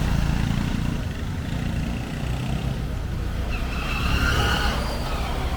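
Street traffic passing close by: a steady low engine rumble, with a brief high-pitched squeal from about three and a half seconds in.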